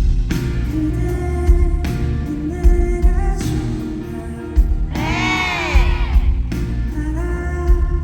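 Live band playing a pop-rock song with a singing voice over drums, bass and guitar. About five seconds in, one held vocal note swoops up and back down.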